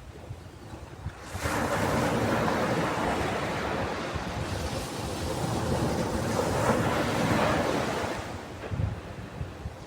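Ocean waves on a beach: a wave breaks about a second in and its surf washes in a steady rush for several seconds, easing off near the end.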